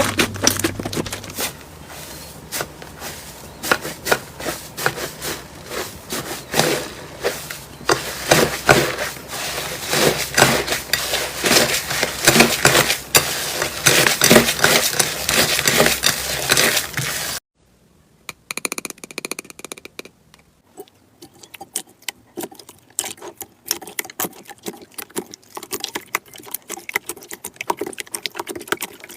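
Slime being squeezed and worked by hand, a dense run of sticky crackles and pops. About two-thirds through it cuts off abruptly, and a quieter stretch of slime clicking follows.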